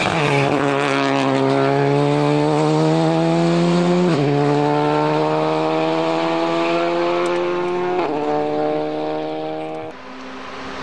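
Rally car engine pulling hard under full throttle, its note climbing steadily through a gear and dropping twice as it shifts up, about four seconds per gear. Near the end the engine note cuts off abruptly.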